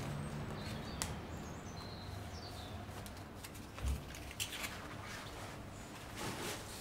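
Faint bird chirps over quiet room tone, with a few small sharp clicks and a dull low thump about four seconds in.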